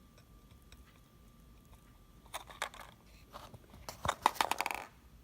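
Quick crunchy clicks and scrapes from working the tinned copper soldering iron tip: a few scattered scratches, then a dense, louder run of clicks about four seconds in.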